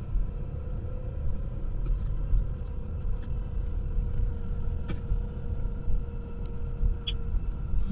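Road noise inside a moving car: a steady low rumble, with a faint steady whine and a few light clicks.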